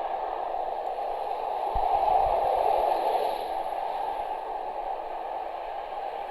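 Steady outdoor rushing noise, with wind buffeting the microphone in a few low thumps about two seconds in.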